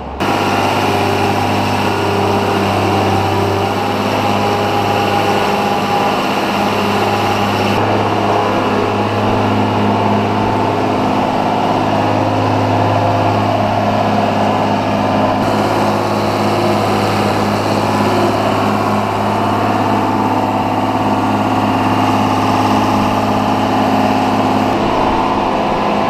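Engine of the feed mixer outfit running steadily under load as feed is unloaded into the feed alley: a constant low drone with a hiss above it.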